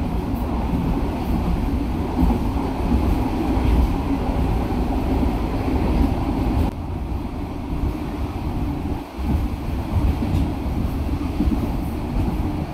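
Steady rumble and rattle of a moving passenger train heard from inside the coach, with wind rushing in through the open door and windows.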